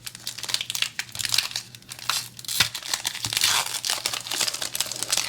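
Foil trading-card booster pack wrapper being torn open and crinkled by hand, a dense run of crackling rustles.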